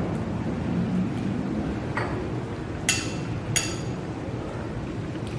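Cutlery clinking against a dish twice, each strike ringing briefly, over a steady low background rumble.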